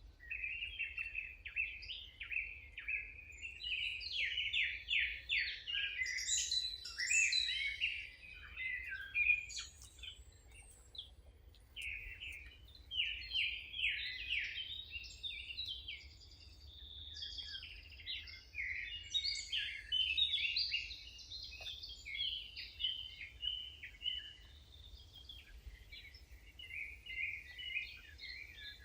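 Songbirds singing: a dense, continuous run of rapid high chirps and trills that swells and dips, over a faint steady low rumble.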